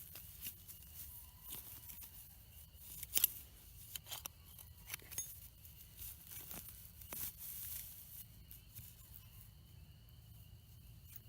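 Irregular scraping, crunching and clicking of dirt being dug out by hand from a gopher hole to uncover a buried trap, with a sharper click about three seconds in.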